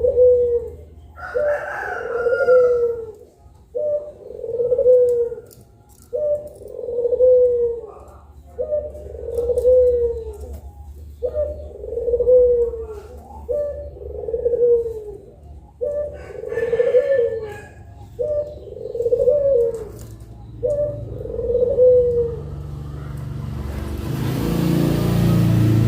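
Puter pelung dove cooing over and over, about ten coos evenly spaced every two and a half seconds. Near the end a low rumble of noise swells up.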